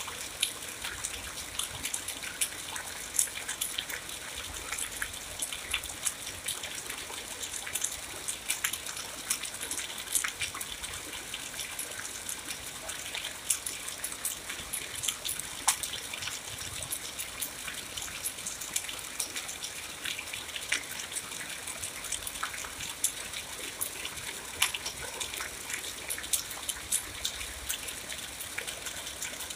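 Steady rain falling, an even hiss with many sharp, close drop hits scattered through it.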